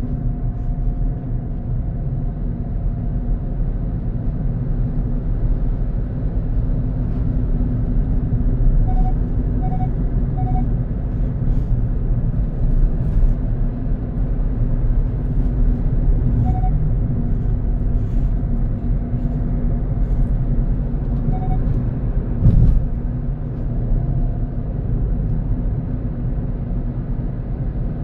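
Car driving along a road: steady low rumble of engine and tyre noise, with a few faint short beeps and a single thump about two-thirds of the way through.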